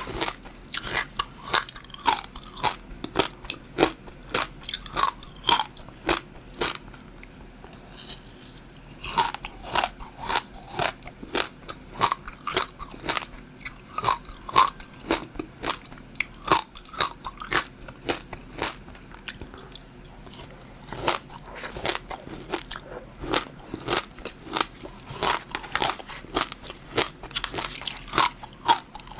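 Close-miked eating: a person biting and chewing food with many crisp crunches and wet mouth clicks, pausing briefly twice.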